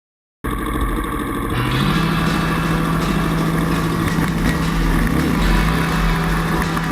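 Dirt bike engine running, its pitch stepping up briefly about a second and a half in and then held steady.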